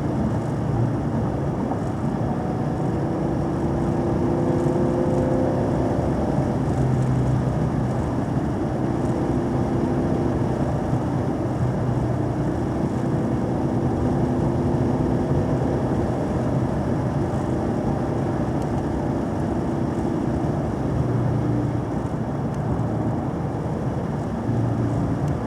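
Vehicle engine running steadily with road noise, its tone swelling and easing a little as the speed changes on a winding road.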